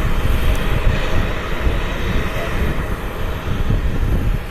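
Jet airliner engines running at low power as the aircraft taxis in to the gate, a steady, even rumble.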